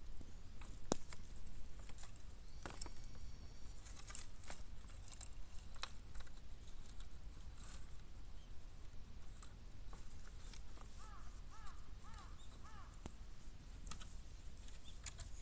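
Bamboo burning in an open-bottomed 18-litre steel can, crackling with scattered sharp pops and clicks. A quick series of short chirping notes comes about eleven seconds in.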